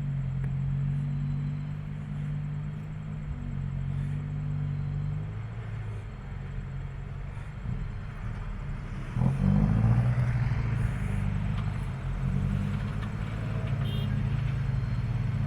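Mitsubishi Canter truck's diesel engine pulling steadily under load up a steep, rocky climb. About nine seconds in it gets louder and its pitch shifts as the driver gives it more throttle.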